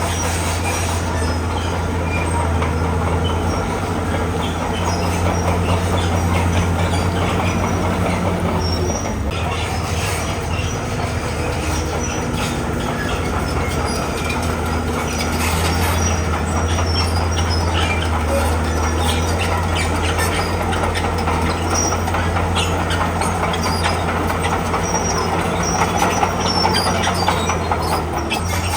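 Komatsu bulldozer's diesel engine running steadily, with its steel crawler tracks squealing and clinking as it works.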